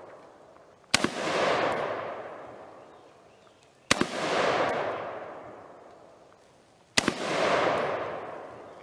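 Ruger AR-15 rifle shots: three single shots about three seconds apart, each followed by a long rolling echo that dies away over a couple of seconds.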